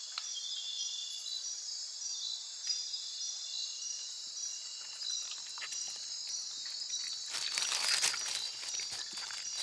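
Rainforest insect chorus: a steady, high-pitched trilling with evenly repeating pulses. A short burst of crackling noise comes about eight seconds in.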